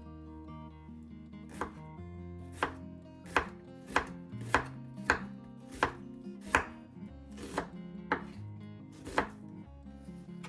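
Knife chopping vegetables on a cutting board: about a dozen separate cuts at a slow, even pace, starting a second or so in.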